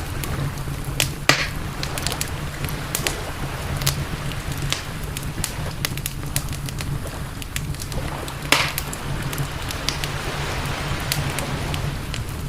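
Wood campfire crackling, with irregular small pops and two louder snaps, one about a second in and one near the two-thirds mark, over a steady low rumble.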